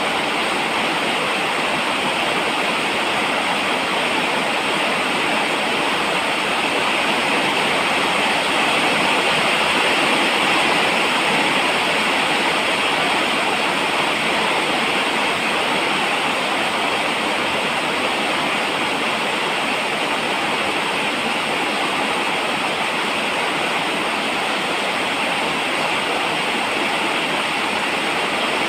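Steady falling rain, an even unbroken hiss.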